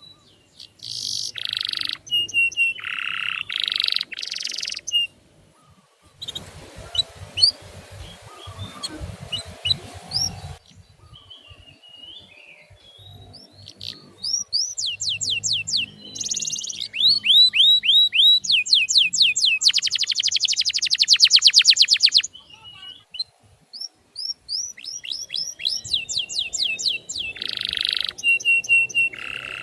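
Male canary singing: runs of quick, high down-slurred chirps repeated in series, with a harsh buzzing passage about a quarter of the way in and a very fast, loud trill about two-thirds of the way through.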